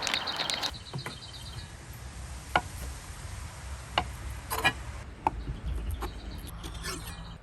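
Knife cutting food: a handful of sharp, separate knocks, about five over a few seconds. A short run of fast, high chirps sounds in the first second or so.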